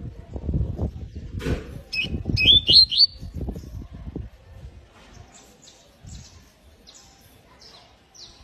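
Canary giving a quick run of three or four short rising chirps about two seconds in, then faint high chirps. Loud low rustling and knocking fill the first four seconds.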